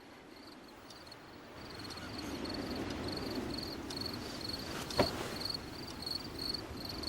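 Insect chirping, a steady high chirp about three times a second, over a low rumble that swells about two seconds in; a single sharp knock about five seconds in.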